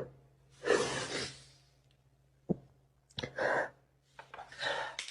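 A person sighing and breathing out heavily three times, with a faint click between.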